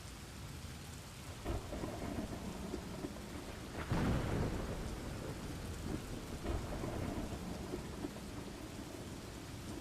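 Thunderstorm: steady rain with low rolling thunder, and a louder thunderclap about four seconds in.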